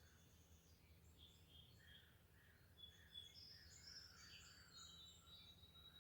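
Several small birds chirping and trilling faintly, the calls busiest in the second half, over a low steady rumble of background noise.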